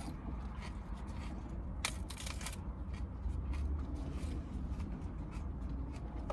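Crisp crunching and chewing of raw lettuce, in short irregular crackles with a denser run of crunches about two seconds in, over a low steady hum inside a car.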